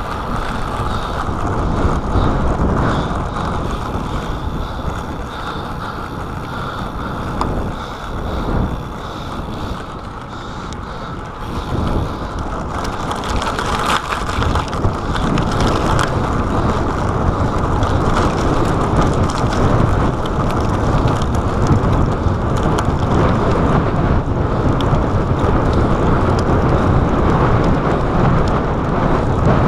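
Wind rushing over a chest-mounted GoPro's microphone while a road bike is ridden at speed: a steady rumbling roar that grows stronger about halfway through.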